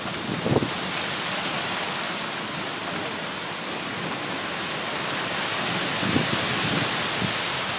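Heavy rain falling steadily during a thunderstorm, with a few brief low thumps about half a second in and twice near the end.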